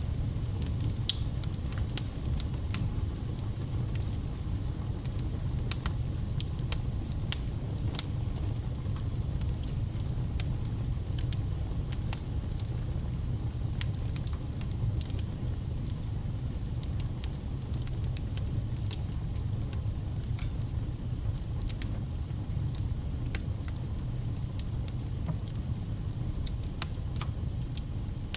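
Wood fire burning, with a steady low rumble of the flames and frequent irregular sharp crackles and pops from the burning logs.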